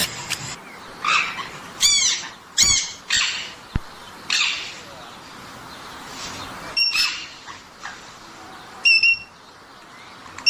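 Sun conures calling: a run of loud, harsh squawks in the first half, then a few short whistled chirps near the end.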